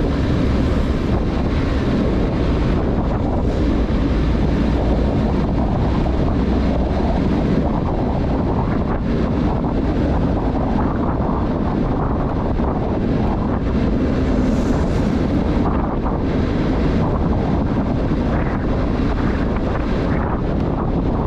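Wind buffeting the microphone in a winter storm: a steady, loud, low rushing noise that gusts unevenly.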